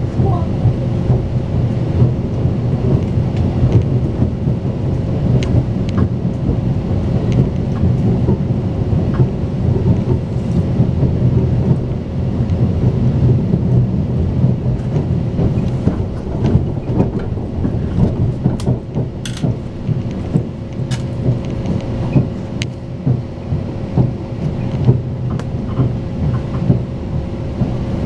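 Passenger train running at speed, heard inside the carriage: a steady, dense low rumble from the wheels and track, with a faint steady hum and scattered sharp clicks.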